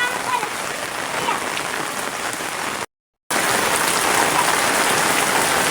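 Heavy rain falling, a steady hiss of rain on surfaces. It cuts out completely for a moment about halfway through, then comes back slightly louder.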